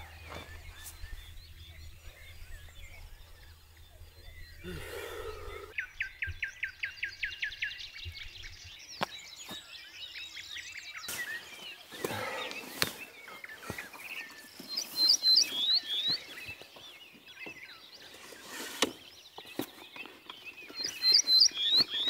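Small birds calling: a fast, even trill a quarter of the way in, then groups of three or four sharp, high chirps about two-thirds of the way in and again near the end, the loudest sounds here. Between them come soft rustles and clicks of a bag and tent fabric being handled.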